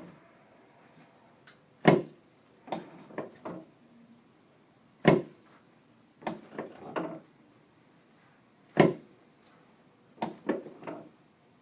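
Chiropractic adjusting table clacking during a prone spinal adjustment: three loud, sharp clacks about three and a half seconds apart, each followed by a quick run of three lighter clicks.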